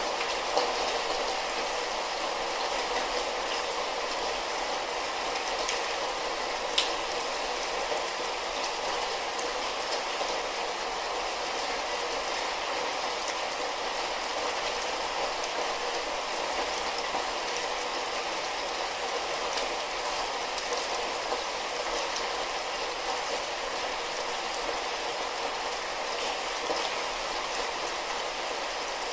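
Light rain falling: a steady, even hiss with scattered drip ticks, one sharper than the rest about seven seconds in.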